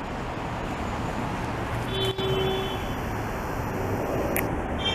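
Steady highway traffic noise, a continuous rush of passing vehicles, with a faint short tone about two seconds in.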